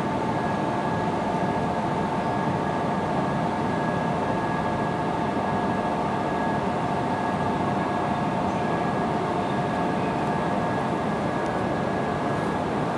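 E6 series Shinkansen train standing still at the platform, its onboard equipment running: a steady hum and hiss with a few constant whining tones, level and unchanging throughout.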